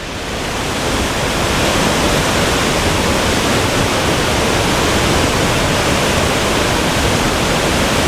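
Krimml Waterfalls, water rushing and crashing in a loud, steady noise that swells over the first second or so and then holds even.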